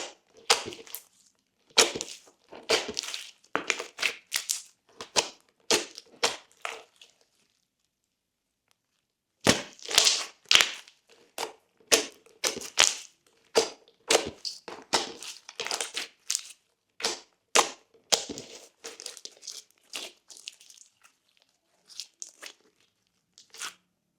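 Thick glossy slime being squeezed and folded, giving runs of sharp pops and crackles. It stops for about two seconds a third of the way in, then starts again densely and thins out toward the end.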